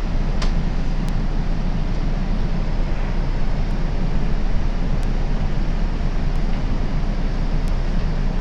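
Steady low rumble of a Metro Gold Line light rail car running, heard from inside the car, with a few faint clicks.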